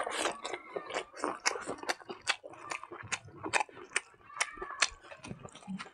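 A person chewing a mouthful of rice and silkworm larvae close to the microphone, with a quick, irregular run of mouth clicks and smacks, about three a second.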